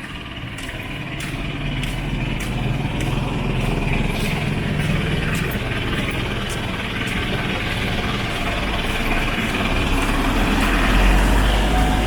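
A small motor vehicle's engine running close by, getting louder towards the end as it nears.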